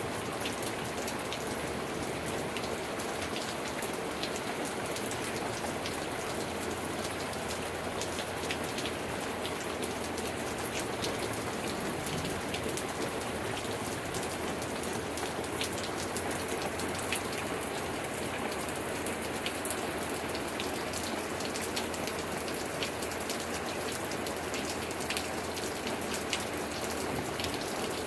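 Steady rain falling, with many individual drops hitting close by as sharp ticks over an even hiss.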